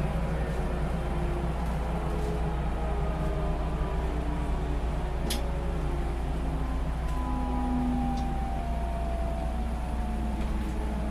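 JR Central 373 series electric multiple unit running, heard from the car's deck: a steady low rumble with air-conditioning noise mixed in. Faint whining tones drift slowly downward in pitch, and there is one sharp click about five seconds in.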